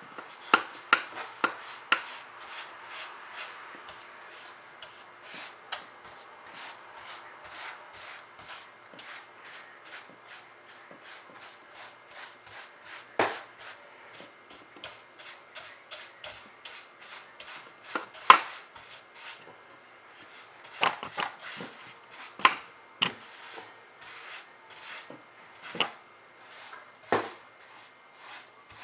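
Paintbrush dabbing and scrubbing on the painting surface: a long run of quick taps, two or three a second, with rubbing between them and a few sharper knocks.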